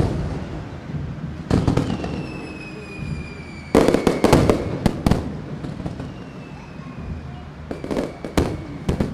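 Aerial fireworks bursting, with sharp bangs and crackling in clusters: one bang right at the start, a volley about a second and a half in, the loudest run from about four to five seconds, and another volley near the end. Between the volleys a thin whistle falls slowly in pitch.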